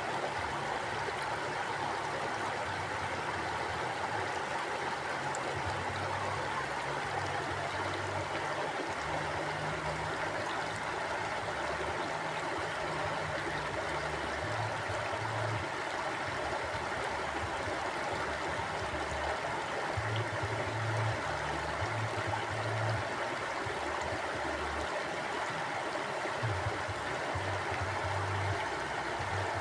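River water flowing steadily, a continuous rushing babble, with an uneven low rumble that swells and fades underneath.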